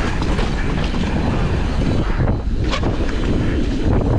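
Wind rushing over the microphone and the rumble and rattle of a downhill mountain bike riding fast over a dirt trail, with a short dip in the noise about two seconds in.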